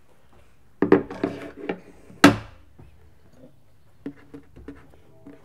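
Knocks and light clatter of objects being handled on a tabletop. The loudest is a single sharp knock a little over two seconds in, and a few light taps come near the end.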